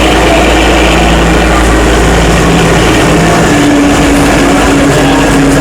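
Train in motion: a loud, steady running noise with an engine hum underneath that shifts slightly in pitch.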